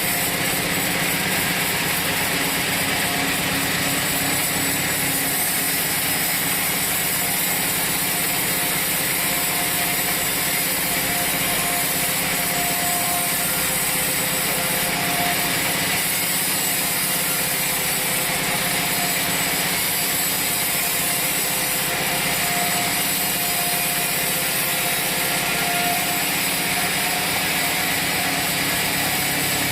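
Sawmill running steadily: an engine-driven saw with a constant hum and hiss, sawing wood.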